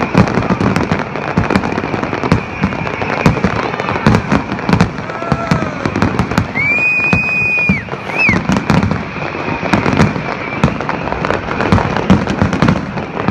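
Fireworks display: a rapid, near-continuous run of bangs and crackles from shells bursting overhead. A held high whistle sounds about seven seconds in.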